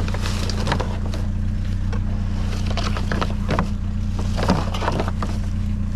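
Vehicle engine idling steadily, with short scattered clicks and scrapes of junk being handled over it.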